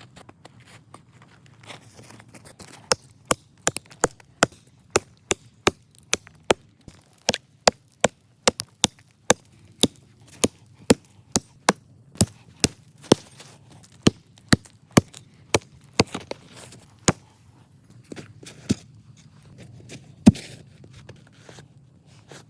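Wood being chopped with an axe: sharp, separate strokes at about two a second for some fifteen seconds, then a few slower strikes, the hardest near the end.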